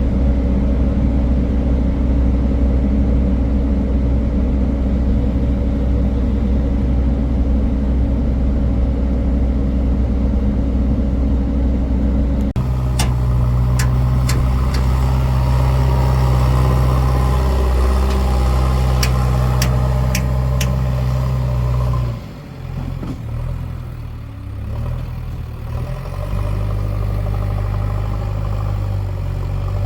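Heavy diesel engine running steadily with a deep, even hum. The engine note shifts abruptly about twelve seconds in and again a little past twenty seconds. Several sharp clicks sound in between.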